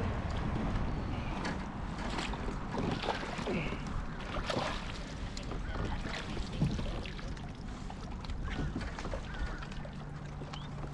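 Splashing water with scattered knocks and rustles around a kayak, over a steady wind rumble on the microphone, while a big largemouth bass is being fought and landed.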